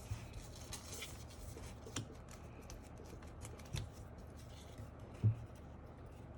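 Light snipping and rustling of hands working with scissors and sheet material, with three soft knocks, the last one the loudest near the end.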